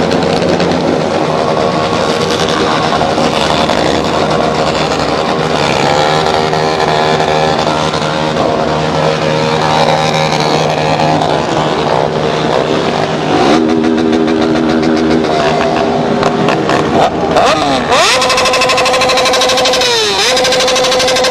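Several motorcycle engines running together, loud, with repeated revving that rises and falls in pitch, most strongly in the last few seconds.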